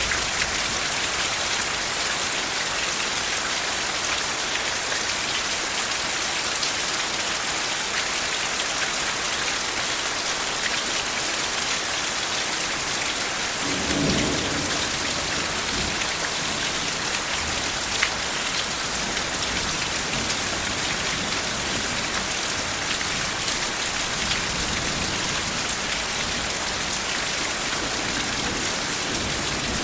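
Steady heavy rain hissing and pattering on a surface, with a brief low rumble of distant thunder about halfway through.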